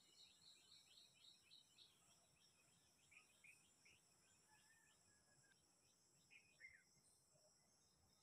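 Faint birdsong: a quick series of short high chirps, about five a second, for the first two seconds, then scattered chirps and a sharper falling call past the middle, over a steady high hiss.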